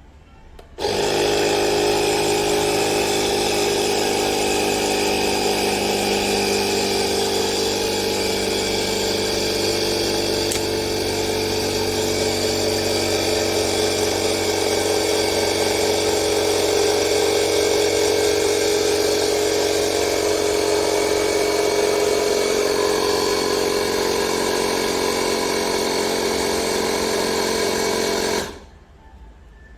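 Portable electric air compressor (tyre inflator) running steadily with a motor hum and buzz; it switches on about a second in and cuts off abruptly shortly before the end.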